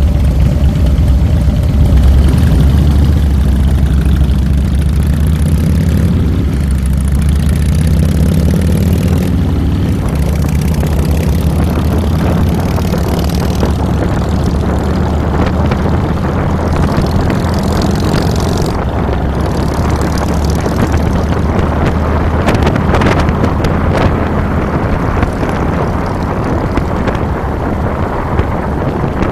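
2007 Harley-Davidson Fat Boy's V-twin engine running while the bike is ridden on the road, heard from a handlebar-mounted microphone. Wind noise mixes in and grows stronger in the second half.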